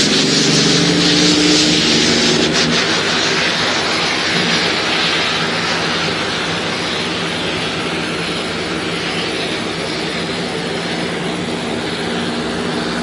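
Big-rig diesel truck engine running under a loud, steady rushing noise. Its engine note fades after the first few seconds and the overall sound eases off gradually.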